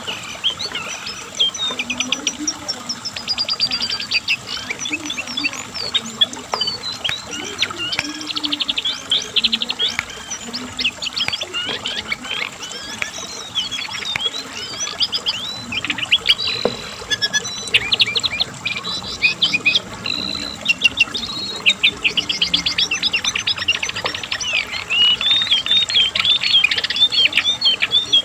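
Brown cingcoang (jongkangan coklat), a shortwing, singing in a long, unbroken run of rapid trills and chattering, high notes.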